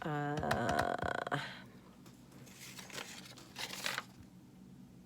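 Paper rustling and crinkling as scraps of paper are handled, loudest about three seconds in. A short hummed "hmm" from a woman, falling in pitch, comes right at the start.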